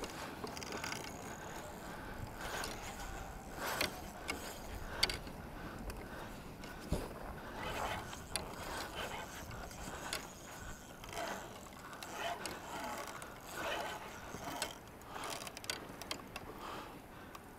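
Fishing reel being worked against a hooked kingfish: irregular mechanical cranking and ratchety clicks, in short uneven spurts.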